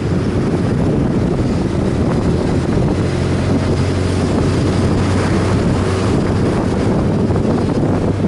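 Riding on a motorcycle: heavy wind rushing over the microphone over a steady engine hum.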